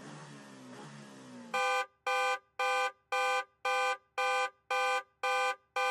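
A loud, buzzy electronic beep repeats about twice a second, nine times from about a second and a half in, each beep short and the same pitch: a quiz countdown timer running out. Before it there is only a quiet, low background tone.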